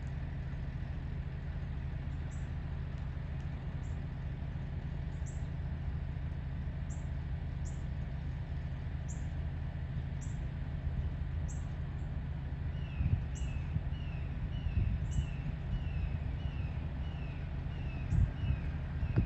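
Birds chirping: a short high chirp repeats about once a second, and from about two-thirds in a quick run of descending calls, two or three a second. Underneath runs a steady low rumble, with a few louder low thumps near the end.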